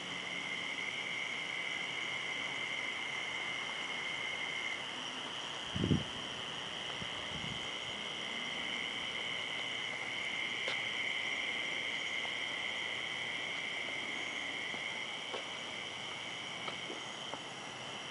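Steady chorus of crickets chirring, with a brief low thump about six seconds in and a softer one shortly after.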